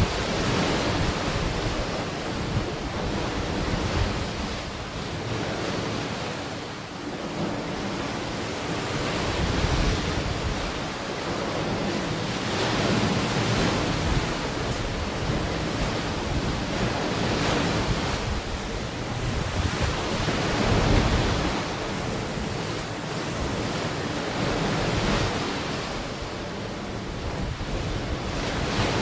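Ocean waves breaking and washing onto a beach, a steady surf noise that swells and eases every few seconds, with some wind on the microphone.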